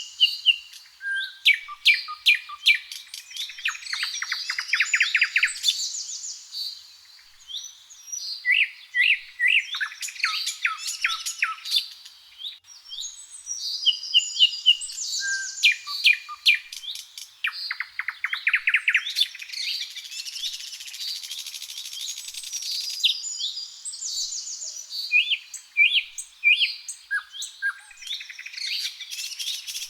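Several songbirds singing at once in overlapping, varied phrases of short chirps, whistles and rapid trills.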